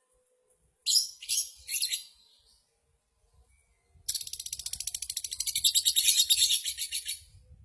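Lovebird calling: a few short shrill chirps about a second in, then, from about four seconds, a long, very rapid high-pitched chattering trill lasting about three seconds.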